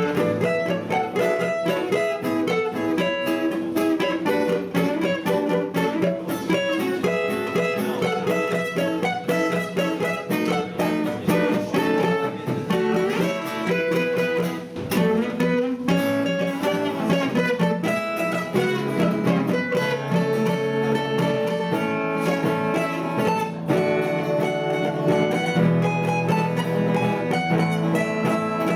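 Two acoustic guitars playing an instrumental passage of a song, with quick plucked notes over a fuller strummed accompaniment.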